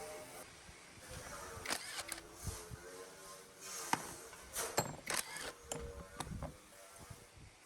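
Irregular sharp clicks and knocks, about a dozen of them, over a faint steady hum.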